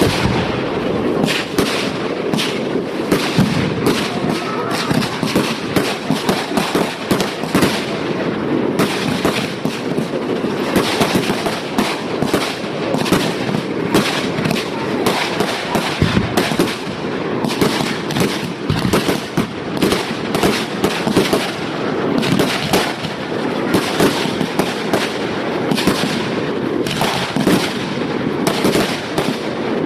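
Fireworks going off in a dense, continuous barrage: many sharp bangs and crackles in quick succession, overlapping one another without a pause.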